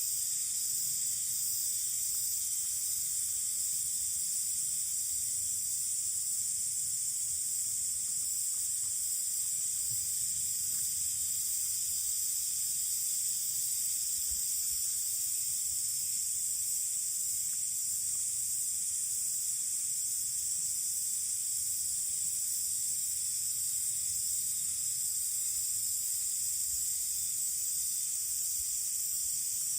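Steady, high-pitched chorus of cicadas, unbroken and even throughout.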